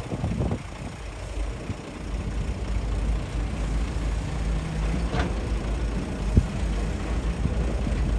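Heavy diesel engine of earthmoving machinery running steadily, getting louder about two seconds in. A sharp knock comes past the middle.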